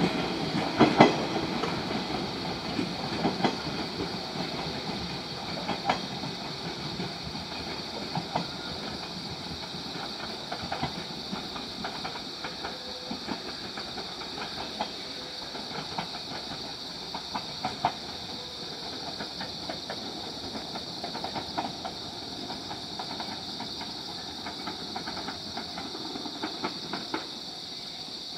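JR Kyushu 415 series 100-subseries steel-bodied electric train moving away over the track, its wheels clicking and knocking over rail joints and points, growing fainter as it recedes. A steady high chirring of insects runs underneath.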